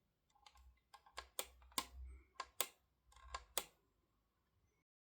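Typing on a computer keyboard: a short, irregular run of key clicks that stops a little before four seconds in.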